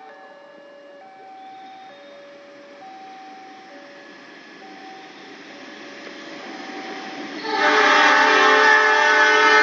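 A two-tone electronic warning signal alternates steadily, about one tone a second. About seven and a half seconds in, the GE CC 206 diesel-electric locomotive's horn sounds loudly as the train arrives, over the noise of the passing train.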